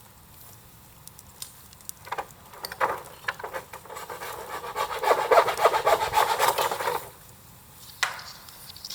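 Rough scraping or rubbing: a few scrapes, then a fast run of rasping strokes that stops suddenly. A single sharp tap comes about a second later.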